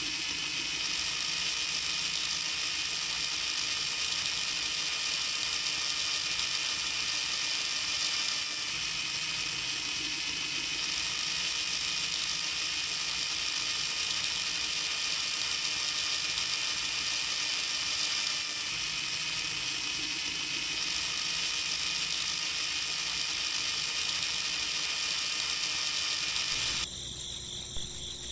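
Small electric motor running steadily with a high-pitched whir; it drops to a quieter level near the end.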